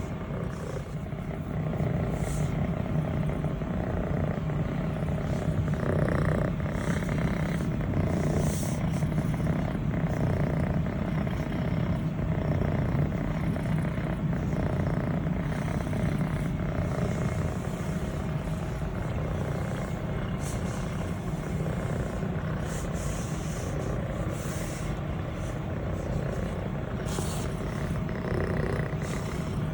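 Scottish Fold kitten purring steadily and loudly close to the microphone, a low, fast-pulsing rumble while she is petted, with brief soft rustles of a hand stroking her fur every few seconds.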